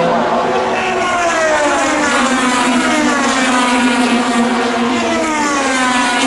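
IndyCar race cars' 2.2-litre twin-turbo V6 engines running at speed. One engine note holds steady while several cars pass one after another, each note falling in pitch as it goes by.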